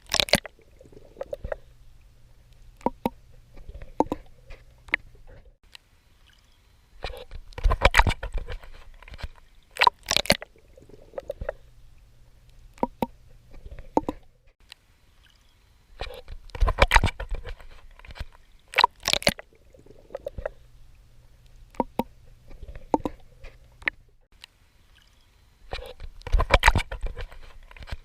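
Swimming in the sea: clusters of sharp splashes from strokes breaking the water about every nine seconds, with quieter water clicks and a faint low hum in between.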